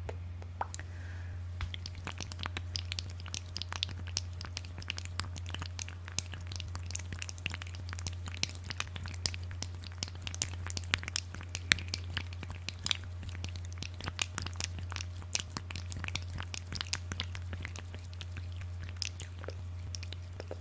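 Close-miked ASMR trigger sounds: a dense, irregular run of crisp clicks and crackles, over a steady low hum.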